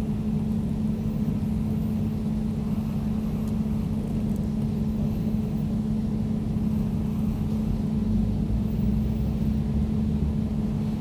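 Air conditioner running steadily: a constant mechanical hum with a low rumble and a soft airy hiss above it.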